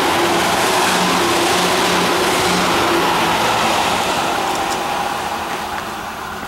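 Tobu 8000 series electric train running through the station at speed: a loud rumble of wheels on rail with a broken hum under it, fading over the last couple of seconds as the train moves away.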